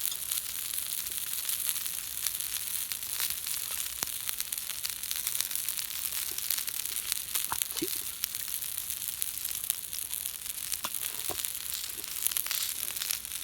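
Food sizzling on an iron griddle over a campfire: a steady hiss full of sharp pops and crackles.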